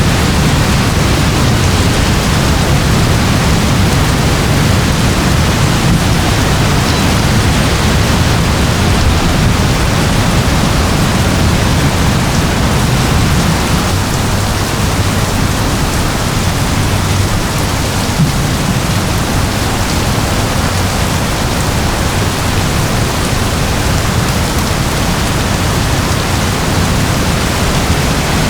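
Steady rain falling, an even hiss with a heavy low rumble underneath that does not change.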